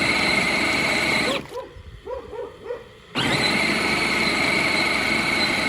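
Tractor engine running steadily with a high whine over it; the sound drops away about a second and a half in and comes back suddenly about two seconds later.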